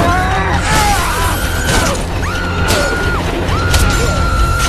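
Film soundtrack of an attack inside a running car wash: machinery noise with a whine that repeatedly rises, holds for about a second and drops, several sharp crashes and smashes, and a music score underneath.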